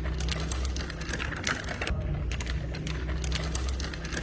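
A machine running with a steady low hum, overlaid by rapid, irregular clicking and clattering.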